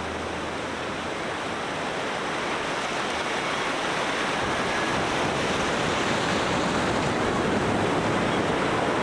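Steady rushing noise, like surf, slowly swelling a little louder.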